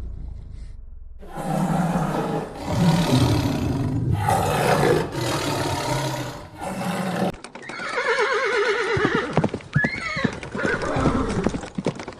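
Animal calls: a series of harsh calls, then after about seven seconds a long, wavering call that quavers and rises and falls in pitch.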